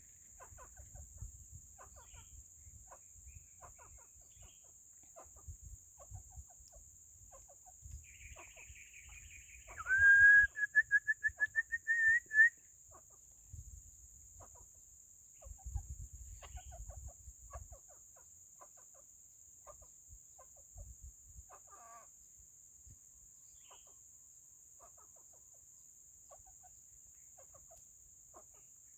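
Junglefowl clucking: a loud run of about eight quick, slightly rising clucks about ten seconds in, with faint scattered clucks through the rest. Intermittent low rumbles sit underneath.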